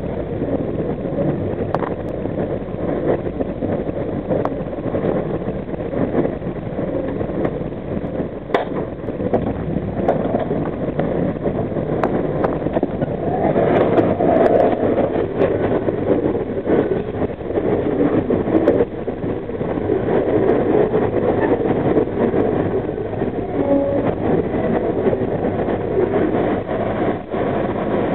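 Steady rumble and clatter of a long CSX freight train of refrigerated boxcars rolling past on the next track, with a few sharp clicks of wheels over the rails and switches.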